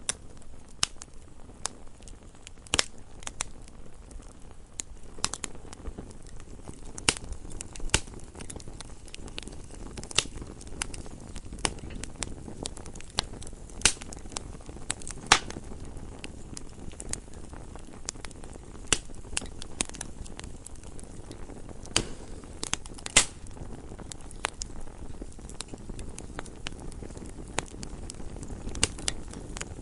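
Wood fire burning in a fireplace: irregular sharp crackles and pops from the logs, a few louder than the rest, over a low steady rumble of the flames.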